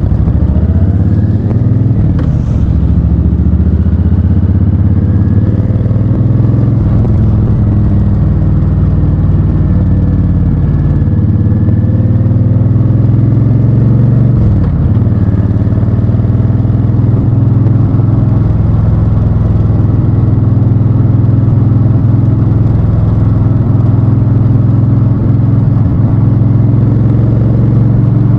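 Honda Fury's V-twin engine running loudly under way, its pitch rising and falling with the throttle, with sharp dips and climbs about two seconds in and again around fifteen seconds in.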